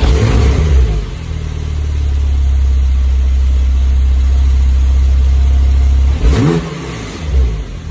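The 2016 Porsche 911 Turbo S's twin-turbo flat-six is running loud and steady just after start-up, settling from a brief flare in revs at the start. About six seconds in, the throttle is blipped once: the engine rises in pitch, then drops back to idle.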